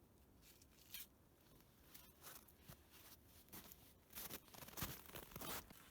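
Faint rustling and crunching with scattered light clicks, the sound of building materials being handled; it grows busier from about four seconds in.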